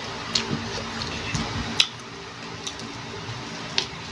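Mouth sounds of eating crisp unripe Indian mango: wet chewing and crunching, with a few sharp snaps of bites or lip smacks, the loudest a little under two seconds in. A faint steady hum runs underneath.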